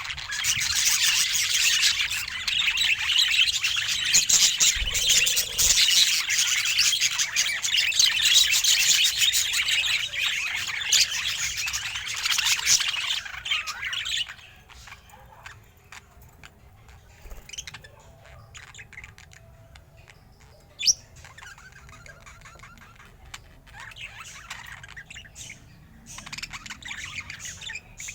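Budgerigar chattering and chirping, dense and busy for about the first half, then quieter with scattered chirps and one short sharp call about three quarters of the way through.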